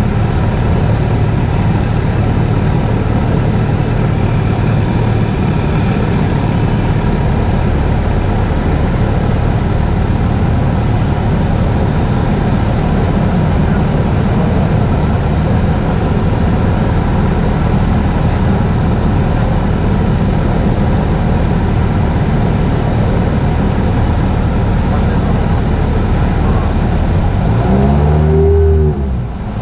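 Cessna 172's four-cylinder piston engine and propeller droning steadily in flight, heard inside the cockpit. Near the end the hiss cuts out briefly and a short sound gliding up and down in pitch breaks in.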